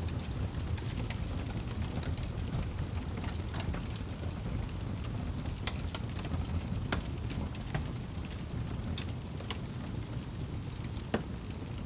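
Wood fire burning in a fireplace: a low steady rumble with scattered sharp crackles and pops, one louder pop near the end.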